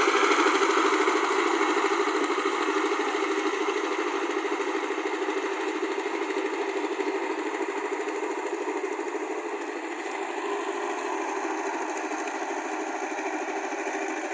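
Tractor engine running steadily, growing gradually fainter over the first ten seconds or so, then holding level.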